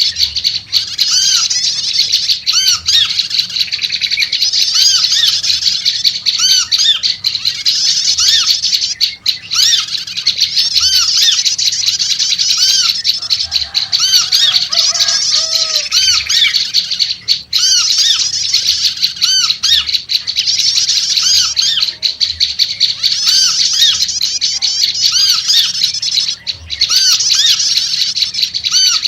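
Prenjak lumut calling busily: a dense, fast run of repeated high, arched chattering notes without pause, with a few faint lower notes about halfway through.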